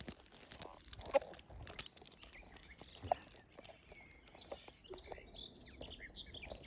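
Small birds calling in high, thin, rapidly pulsed trills that start about four seconds in and keep repeating. Before them come rustling and two sharp snaps, like twigs or foliage being handled.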